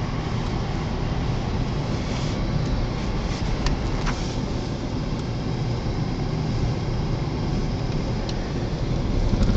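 Steady running noise heard from inside a car's cabin as it drives slowly: engine and tyre rumble, with a couple of faint ticks about four seconds in.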